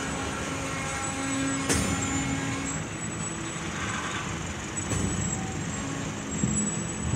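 Double-stack intermodal freight train rolling slowly past as it brakes to a stop, with a steady high whine and a low rumble from the wheels and brakes. Sharp knocks sound about two seconds in, about five seconds in and at the end.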